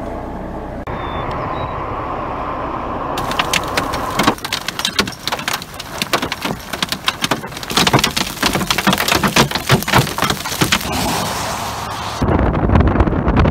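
Hailstones pelting down in a dense, rapid clatter of sharp hits, starting about three seconds in and lasting about eight seconds. Before it a steady rumbling noise, and it ends with a sudden switch to heavy low wind rumble on the microphone.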